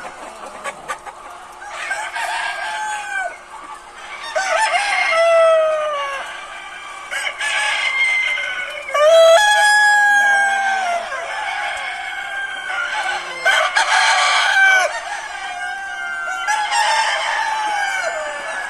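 Roosters crowing one after another, about six long crows falling in pitch, a few seconds apart and sometimes overlapping.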